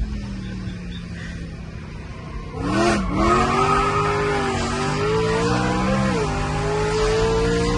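BMW M3's 4.0-litre V8 engine running with its revs easing down, then about two and a half seconds in it revs up sharply and louder and holds there, rising and dipping a little.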